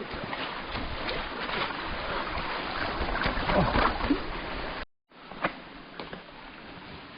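Mountain bike riding down a dirt single-track: steady tyre and trail noise with rattles and knocks over roots and rocks. The sound cuts out briefly about five seconds in, then carries on quieter with scattered clicks.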